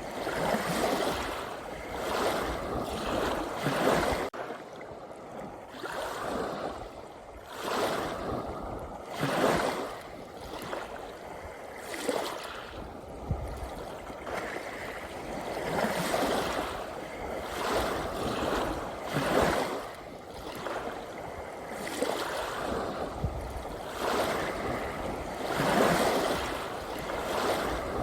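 Small sea waves washing and splashing in, swelling and falling again every few seconds.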